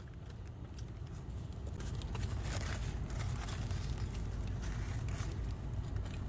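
Close-up eating sounds: irregular chewing and crinkling of a burger wrapper, over a steady low hum.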